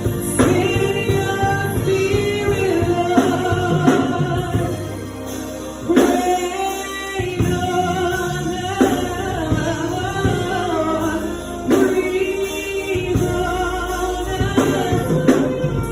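Gospel music: singers, a choir among them, over full instrumental backing with drums.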